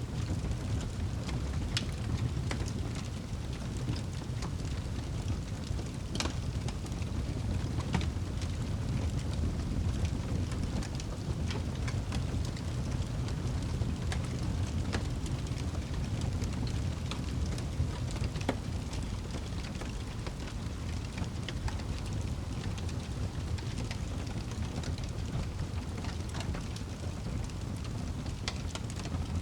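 Wood fire burning in a fireplace: a steady low rumble of the flames with frequent small crackles and pops, a few of them sharper, one about six seconds in.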